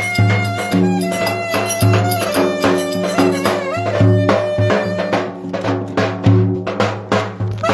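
Turkish folk dance music played live: an ornamented melody on a wind instrument over a steady drum beat.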